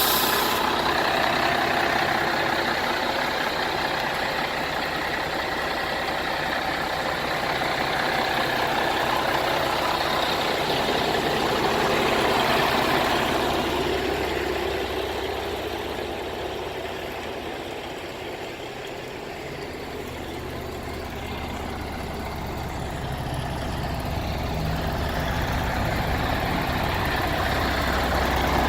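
Scania 112M 320 truck's six-cylinder diesel engine idling steadily, growing fainter about two-thirds of the way through and then louder again.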